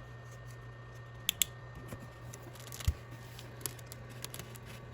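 Faint handling sounds: a few light clicks and taps from hands working an egg against a flashlight, two close together about a second in and a stronger one near the middle, over a steady low hum.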